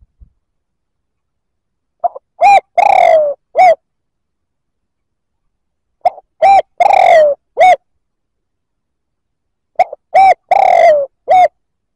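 Spotted dove cooing: three identical song phrases about four seconds apart. Each phrase is a short lead-in note, then a coo, a longer coo that falls in pitch, and a short closing coo.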